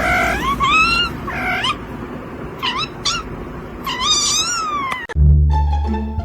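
Domestic cat meowing repeatedly, about six calls that bend up and down in pitch, the last one long and falling. About five seconds in, a plucked-string music track cuts in loudly.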